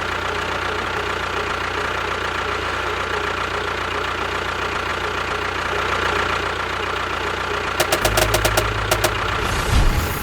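Engine running steadily at idle, with a rapid run of clicks about eight seconds in and a low thump near the end.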